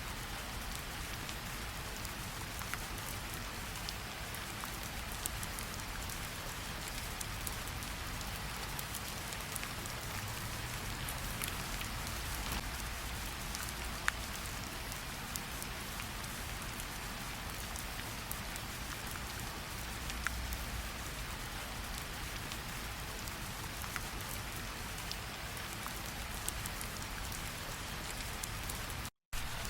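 Steady rain falling, an even hiss with scattered individual drops ticking sharply here and there. The sound cuts out for a split second near the end.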